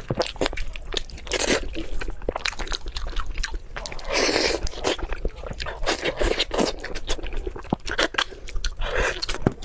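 A person eating, crunching, biting and chewing, with irregular crisp clicks.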